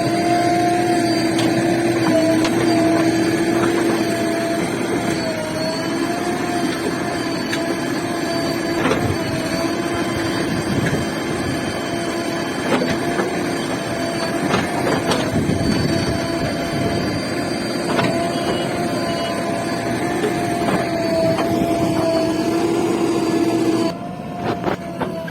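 JCB 3DX backhoe loader's diesel engine running at working revs with a steady, slightly wavering whine, broken by a few sharp knocks. The whine drops out and the sound falls quieter about a second before the end.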